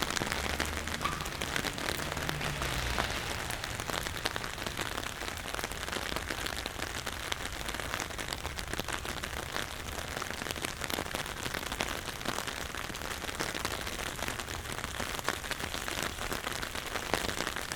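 Steady rain falling, a dense patter of drops on hard surfaces, with a low rumble in the first few seconds.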